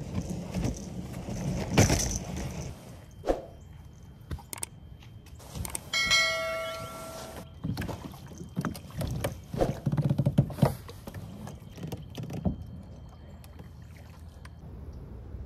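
Lifetime Yukon plastic kayak being launched and boarded, with knocks and scrapes on the hull, then paddle strokes in the water. A bell-like chime sound effect rings about six seconds in.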